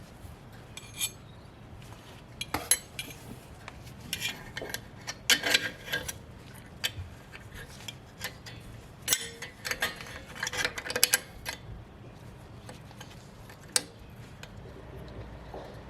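Scattered metallic clinks and rattles of steel drum-brake hardware, such as return springs and brake shoes, being handled and hooked into place. The clinks come in irregular clusters, busiest in the middle.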